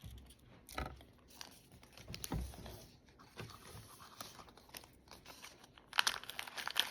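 Small plastic packaging crinkling and tearing as a Mini Brands toy packet is opened by hand, with scattered light clicks; the crinkling gets denser near the end.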